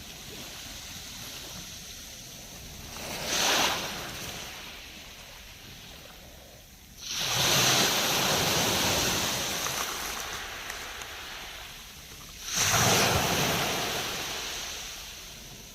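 Black Sea waves breaking on the shore: a small wave about three seconds in, then two larger waves crashing, about seven and twelve seconds in, each washing up and slowly fading.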